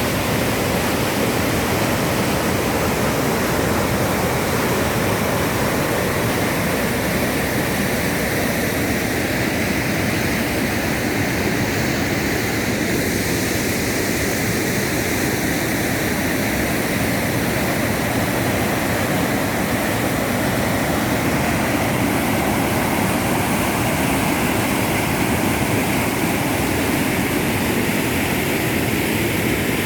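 Water rushing steadily down the Melnichny waterfall on the Titovka River: a loud, constant, even roar of falling water.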